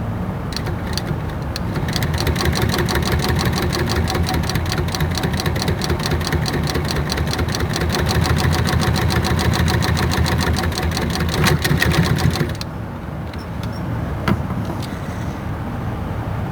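Sewing machine stitching at a rapid, even pace for about ten seconds, then stopping, leaving a lower steady hum and a single click shortly after.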